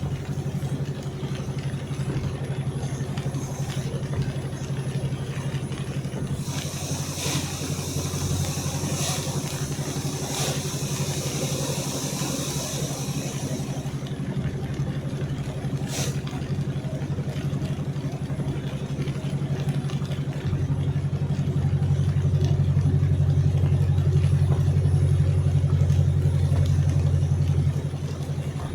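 A car engine running steadily, heard from inside the cabin while driving; its low hum grows louder for several seconds past the middle, then drops back near the end. A high hiss comes in for several seconds early on, and there is a single click in the middle.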